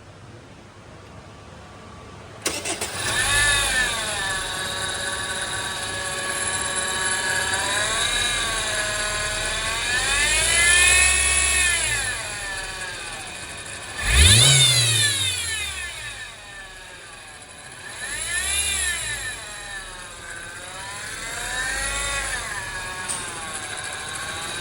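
Honda Civic engine starting about two seconds in, then revved up and down about six times, the sharpest rev near the middle, with a bearing-like noise from the belt drive that gets worse with rpm. The mechanic traces the noise to a worn auto-tensioner bearing with a loose adjuster, a noisy idler pulley and a cracked serpentine drive belt.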